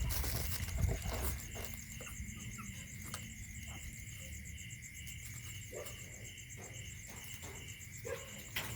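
Crickets chirping in a steady, even pulse at night, with a low rumble in the first second and a few faint short sounds scattered through it.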